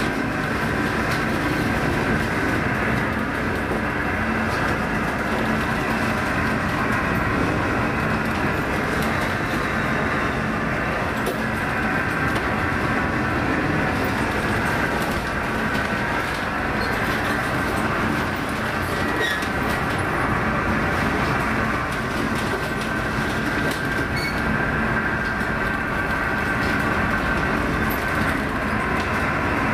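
Steady loud rumble and rattle of a ship's machinery and hull working in heavy seas, with scattered small clicks and knocks.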